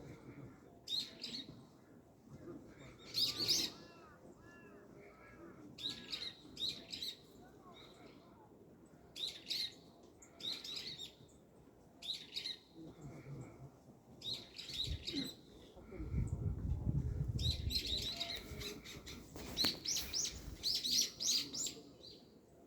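Small songbirds chirping in short repeated calls, coming thicker toward the end, with a low rumble for a couple of seconds past the middle.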